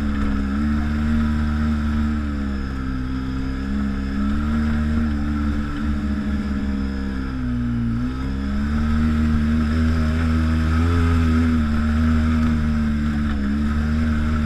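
ATV engine running under way on a trail ride. Its pitch sags and climbs again several times as the throttle eases off and opens, most deeply about eight seconds in.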